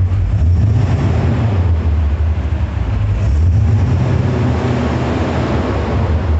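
BMW E38 730i's V8 running through an aftermarket HH-Spezial exhaust, a loud, deep rumble that swells about half a second in and stays up.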